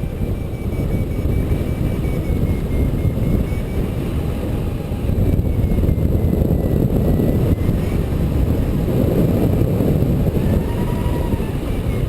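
Heavy wind rushing and buffeting over the microphone of a hang glider under truck tow, with a faint high-pitched tone wavering slowly up and down, typical of a variometer's audio during the climb.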